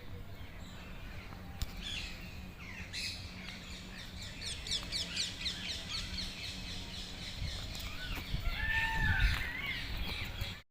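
Wild birds calling: a fast run of high chirps through the middle, then a few lower, swooping calls near the end, over a low background rumble.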